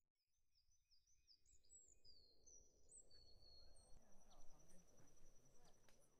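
Faint outdoor park ambience fading in from silence: small birds chirping over a low, steady city rumble.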